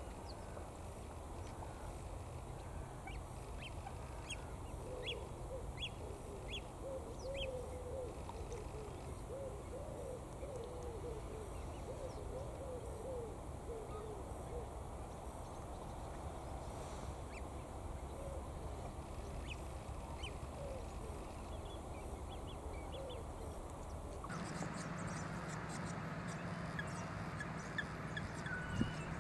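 Outdoor wetland ambience with a run of short, low-pitched bird calls repeating for about ten seconds and a few faint high chirps. Near the end the background changes abruptly.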